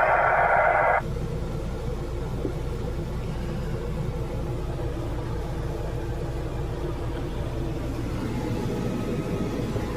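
A band of radio-like static hiss that cuts off abruptly about a second in, followed by a steady low engine-like rumble.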